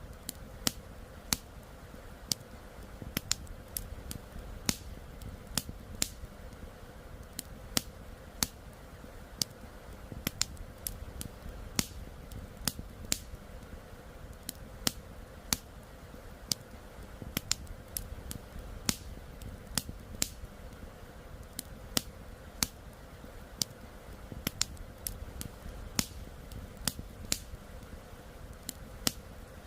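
Wood campfire crackling: irregular sharp pops and snaps, several a second with some much louder than the rest, over a low steady rush.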